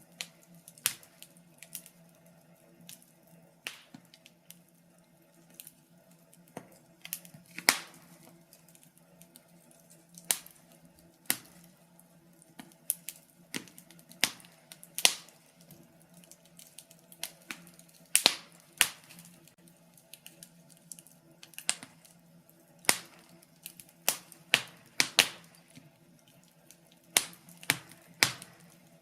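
Wood fire in a fireplace crackling, with irregular sharp pops and snaps of burning logs, a few of them louder, over a faint steady low hum.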